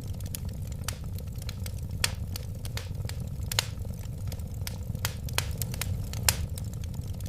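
Wood fire crackling: a steady low rumble of flames with irregular sharp pops and snaps, a few of them louder.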